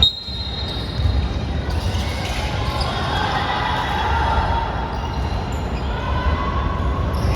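Basketball game in a gym hall: the ball bouncing on the court amid a steady echoing hall noise, with voices in the background.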